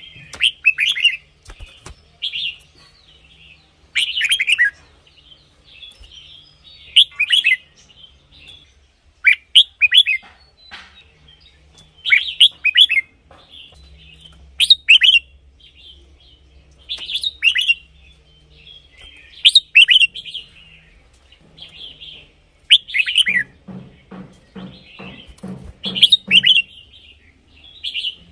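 Red-whiskered bulbul singing: short, loud phrases of quick falling whistled notes, repeated every two to three seconds.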